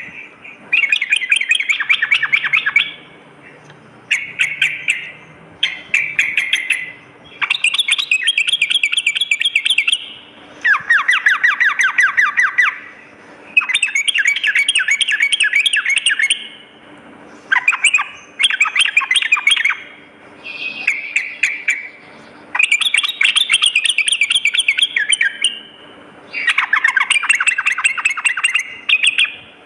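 Yellow-vented bulbul (trucukan) singing loud, rapid chattering phrases of quick notes, each lasting one to three seconds and repeated after short pauses.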